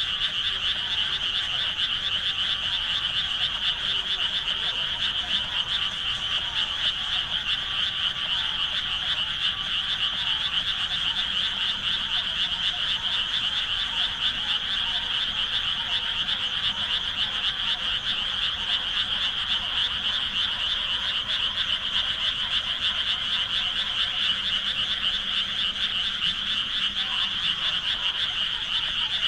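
Dense chorus of many paddy-field frogs calling at once: a steady, unbroken din of fast, high-pitched calls with no pauses.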